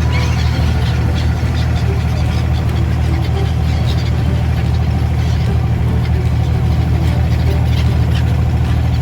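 Steady low drone of an engine running, with faint short bird calls over it.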